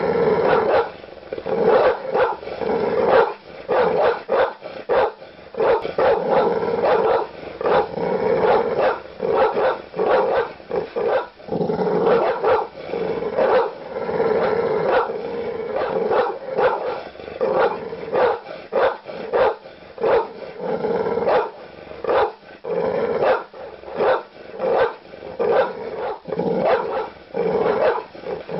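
Large dog barking aggressively, deep barks coming in quick, unbroken runs.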